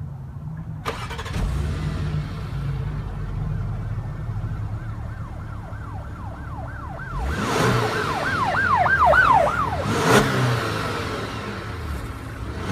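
A low vehicle rumble under a repeated rising-and-falling wail that quickens and grows louder for about five seconds, then a whoosh and a sharp hit near the end.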